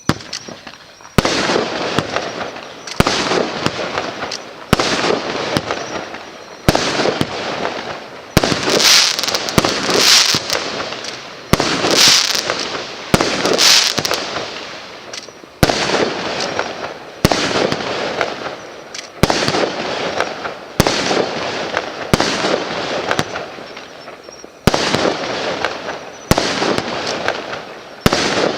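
Gemstone Fireworks '3 Gems' multi-shot firework firing a shot about every second and a half, each a sudden bang trailing off in a fading crackle. The bursts are brighter and hissier between about eight and fourteen seconds in.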